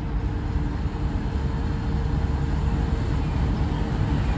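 Diesel freight locomotives, a Union Pacific unit leading a Norfolk Southern unit on an intermodal train, running as they approach: a steady low engine rumble with a faint held hum, slowly growing louder.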